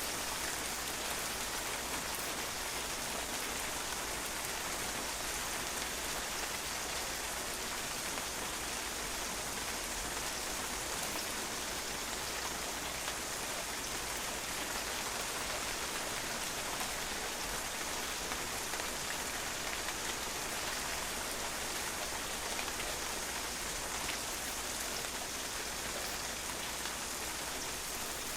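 Steady rain falling and drops pattering on a patio, an even hiss with fine drop ticks.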